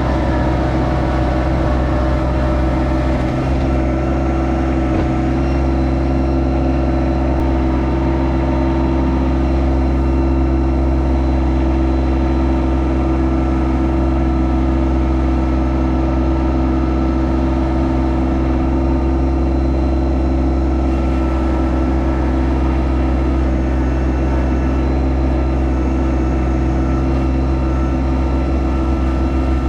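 Yanmar SA324 compact tractor's three-cylinder diesel engine running steadily at a constant speed.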